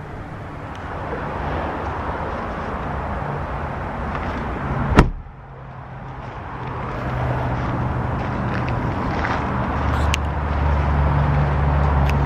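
A truck door shuts once with a sharp thump about five seconds in, over steady background noise. A low, steady vehicle hum builds in the last few seconds.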